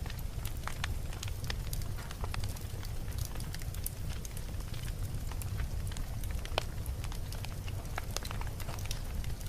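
Campfire burning: wood crackling and popping in scattered sharp snaps over a steady low rumble of the flames.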